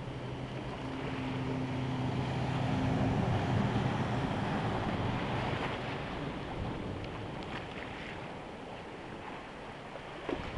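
A vehicle driving through deep floodwater on a street: an engine hum under a rush of churned, splashing water that swells and then fades as it passes. A brief knock near the end.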